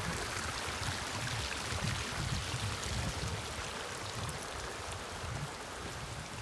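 Rainwater runoff rushing steadily over the ground, a stormwater flow too heavy for the drainage swales to take.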